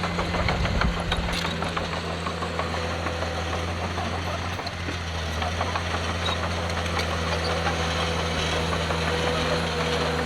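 Heavy diesel earthmoving engine running steadily, with a scatter of sharp clicks and rattles over it, most dense about half a second to a second in.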